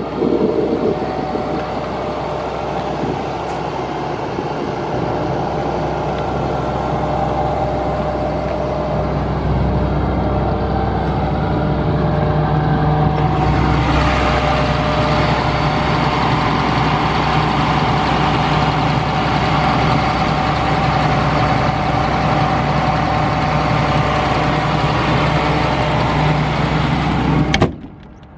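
Caterpillar C6.6 inline-six diesel engine of an Atlas Copco XAHS236CD portable air compressor running steadily. About halfway through, a stronger hiss joins the engine note. The sound cuts off suddenly near the end.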